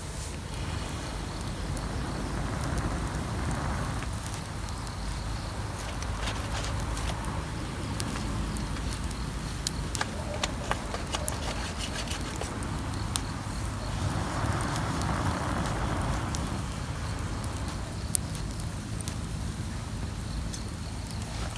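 Wood fire crackling, with scattered sharp pops over a steady low rumble and two brief swells of hiss.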